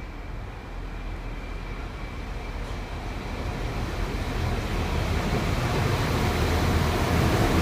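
Rail vehicle passing through a station, its rumble growing steadily louder as it approaches.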